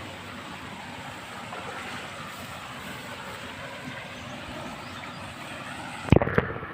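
A steady rushing noise of open-air wind or water, with a few sharp knocks about six seconds in.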